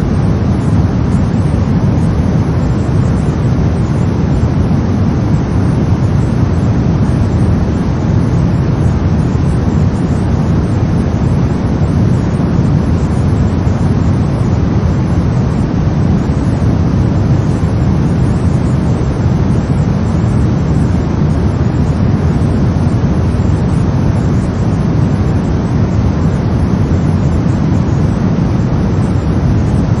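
Steady, deep brown noise: an even rumbling hiss strongest in the bass, unchanging throughout.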